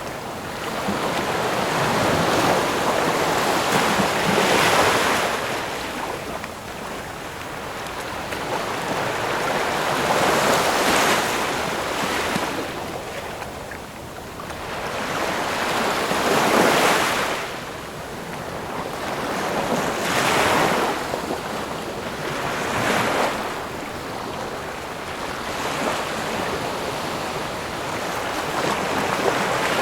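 Ocean waves breaking and washing on a shore, the rushing surf swelling and easing in repeated surges every few seconds.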